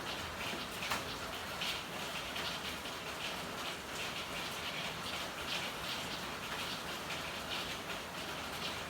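Steady rain falling, with irregular spatters of drops striking hard surfaces every half second or so.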